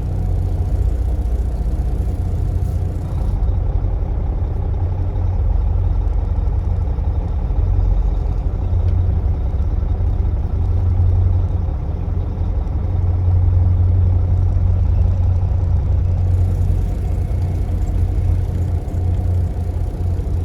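Semi truck's diesel engine running steadily with a deep rumble, swelling a little a few times as it moves slowly.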